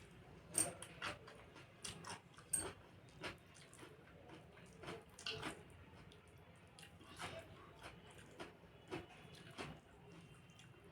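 A person eating close to the microphone: irregular, wet chewing and lip-smacking clicks, a few every second.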